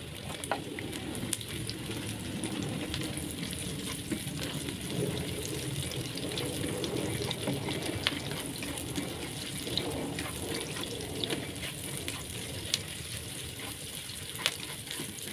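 Garlic, shallots and onion sizzling in hot oil in a pan, with a spatula clicking and scraping against the pan as they are stirred.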